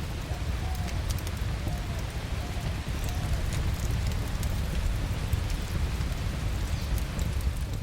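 Wood fire crackling: scattered sharp pops and ticks over a steady low rumble.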